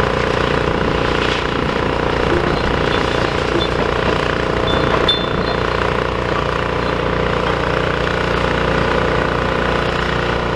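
A large engine running steadily and loudly, with a constant hum.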